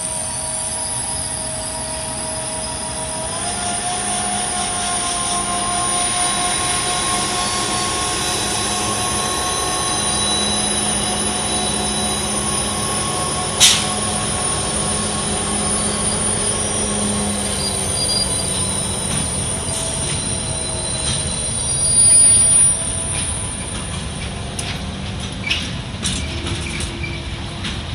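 A train rolling past with its wheels squealing on the rails: several steady high-pitched squeal tones that step up in pitch about three seconds in. There is a sharp click about fourteen seconds in, a louder, shriller squeal near twenty-two seconds, and scattered clicks toward the end.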